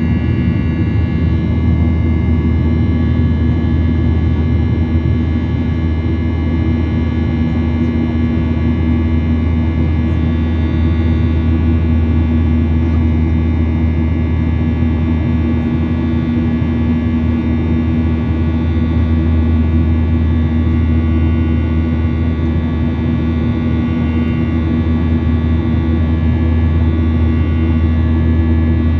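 Airliner engines heard inside the passenger cabin: a steady, loud drone with low hums and fainter high whines that stay unchanged throughout.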